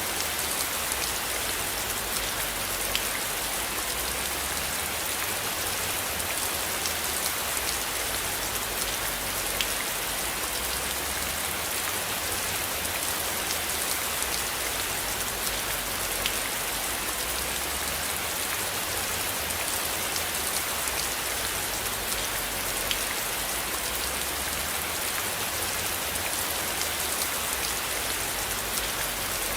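Steady rain falling, with individual drops ticking here and there over an even hiss. A constant low rumble runs underneath.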